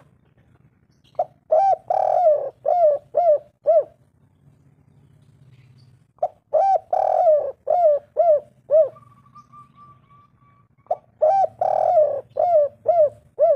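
Spotted dove (tekukur) cooing: three bouts of quick repeated coos, each bout about two and a half seconds long and coming about five seconds apart, over a faint low hum.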